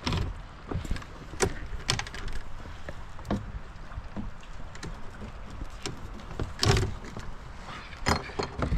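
Irregular knocks and clunks of gear against a small boat, with a heavier thud about seven seconds in, over a low rumble.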